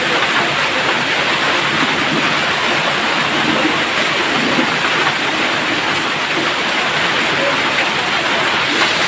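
Heavy rain pouring down, a loud, steady hiss that holds even throughout.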